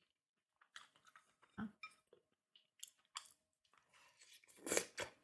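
Close-miked chewing of food, with scattered short crunches and smacks; the loudest crunch comes near the end.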